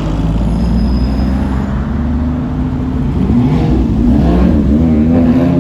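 Car engine and exhaust running with a deep, steady rumble; from about three seconds in the revs rise and fall several times.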